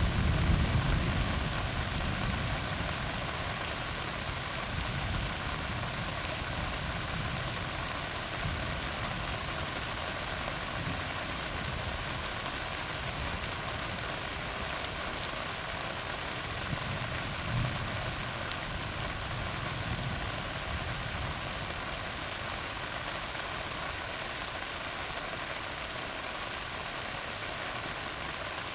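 Steady rain falling on a tar road, with a low thunder rumble dying away over the first couple of seconds and a fainter low rumble about two-thirds of the way through. Scattered sharp drop ticks sound over the even hiss of the rain.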